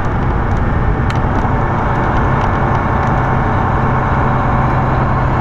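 Semi truck's engine and road noise in the cab, a steady rumble and hiss, with a low steady hum coming in about two seconds in.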